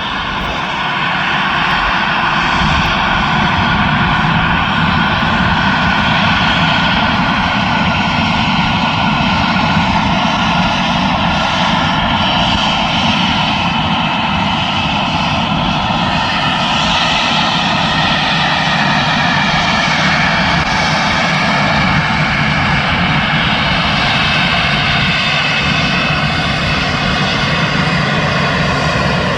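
Boeing 737-700's CFM56-7B turbofan jet engines running steadily, a loud continuous rush with several high whining tones that drift slightly in pitch.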